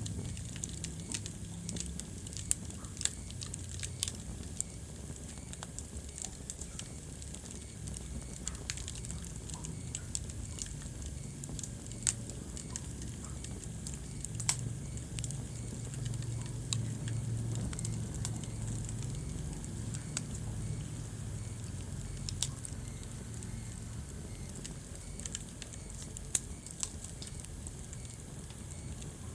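Wood fire in a fireplace crackling, with frequent sharp pops and snaps over a steady low rumble of flame.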